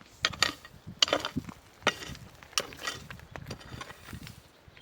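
A series of sharp knocks and scrapes, one every half second or so, from objects being handled or worked by hand.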